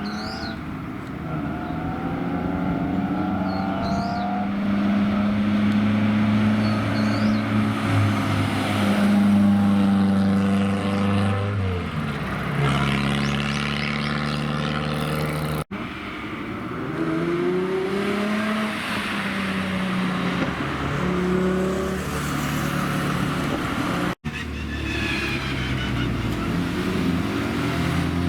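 Car engines running and revving in three clips joined by abrupt cuts, about a third of the way in and again past two-thirds, the pitch rising and falling with the revs.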